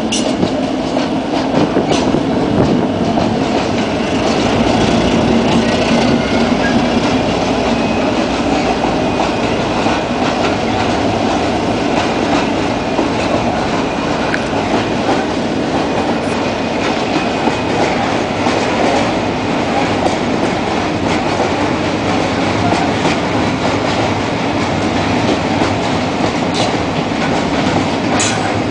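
Freight train of open wagons behind a diesel locomotive rolling steadily past, with a continuous wheel rumble and clickety-clack over the rail joints.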